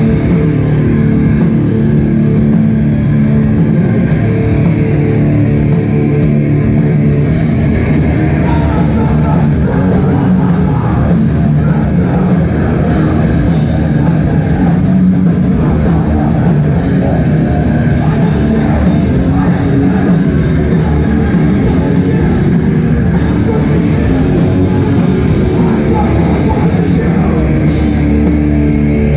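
Hardcore band playing live and loud: distorted electric guitars, bass and drums pounding on without a break.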